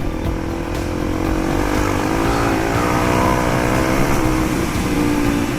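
Motorcycle engine running while riding, its pitch wavering up and down a little in the middle, over a steady low rumble of wind and road noise.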